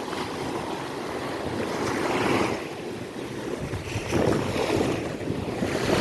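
Ocean waves washing onto a beach, with wind buffeting the microphone. The surf swells about two seconds in and again from about four seconds on.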